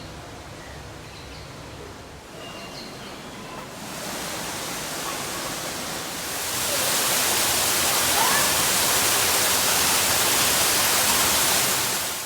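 Steady hiss of rushing water, growing louder about four seconds in and again around six and a half seconds in, then holding level.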